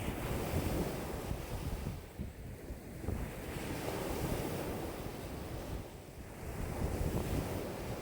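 Wind-driven lake waves washing and breaking in a strong wind of about 5 m/s, in swells that ease twice and build again, with wind buffeting the microphone.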